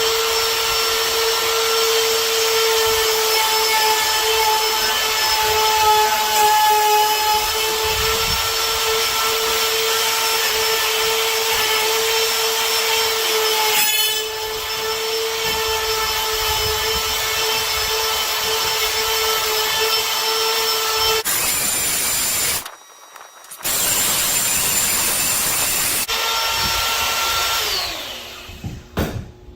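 Handheld power router running steadily with a high whine as it cuts door hinge mortises through a Ryobi hinge jig. It drops out briefly about three-quarters of the way through, runs again, and winds down near the end.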